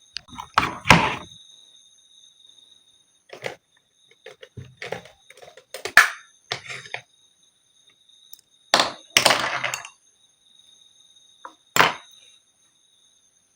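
Watercolor painting supplies being handled and set down on a desk: a series of separate thunks and knocks, the loudest about a second in, at about six seconds and around nine seconds.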